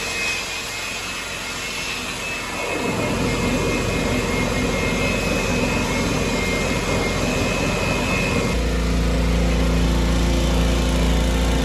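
Steady running noise of factory machinery, a roar with a high whine. About eight seconds in it changes to a deeper, heavier hum.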